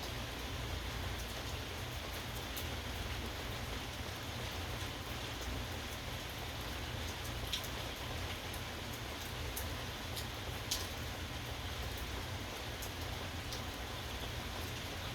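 Steady rainfall, with sharp taps of single drops landing close by now and then, the loudest about two-thirds of the way through.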